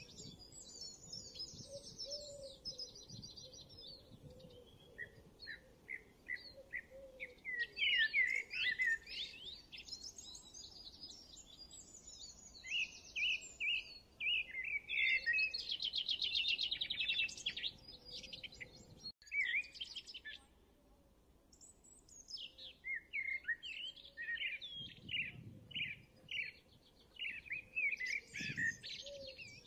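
Songbirds chirping and singing: quick trills and rising and falling whistles, nearly continuous, with a short lull about two-thirds of the way through.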